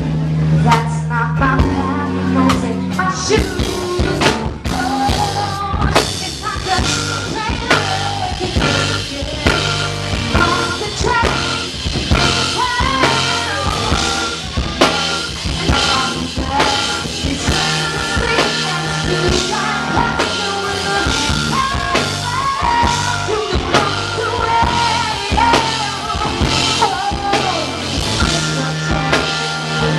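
A live band playing a rock song: a drum kit keeps a steady beat under bass and guitar, with a melody line wavering above.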